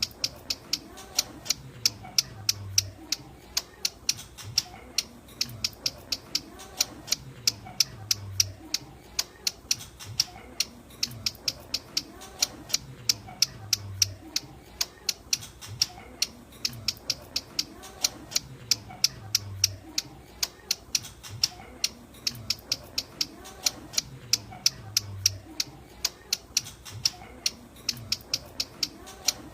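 Ciblek gunung, a prinia, giving its calling song as a rapid, unbroken run of sharp, high chipping notes, several a second. The recording loops every few seconds.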